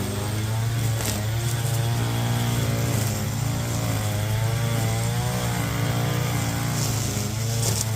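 Lawn mower engine running steadily under load, its pitch wavering slightly.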